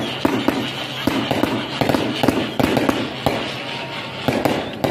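Fireworks going off: an irregular run of sharp pops and cracks, several a second.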